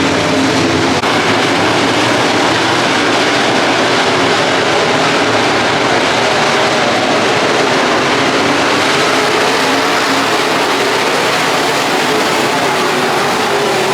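Race car engines running at speed on a dirt track: a loud, steady drone with a wavering engine note.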